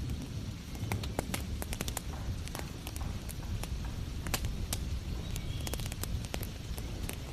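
Wood fire crackling, with irregular sharp pops and snaps over a low steady rumble, and a steady hiss of heavy rain behind it.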